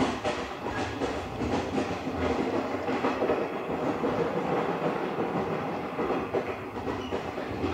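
JNR Series 50 passenger coach running along the line: steady rumble of the wheels on the rails, with repeated rail-joint clacks.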